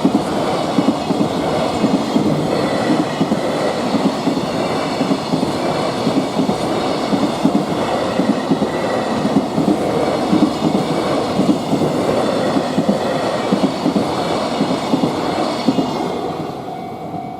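Freight train running past, its wagons' wheels clattering continuously over the rail joints, fading away near the end as the train goes by.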